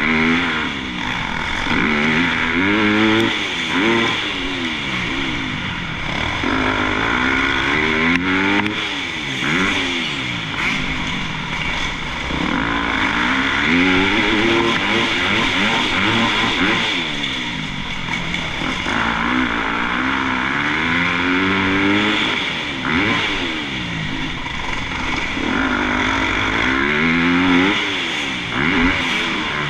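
Motocross bike engine being ridden hard: the revs climb in repeated rising sweeps and drop back as the throttle opens and closes every couple of seconds.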